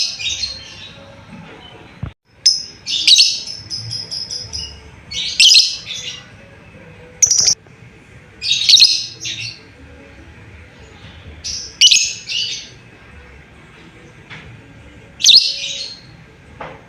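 Lovebird giving loud, shrill chirping calls in short bursts every one to three seconds, with one held high note about four seconds in: calls to a companion bird.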